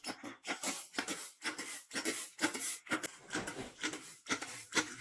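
Rapid back-and-forth rubbing strokes of a hand tool on a surface, about four strokes a second.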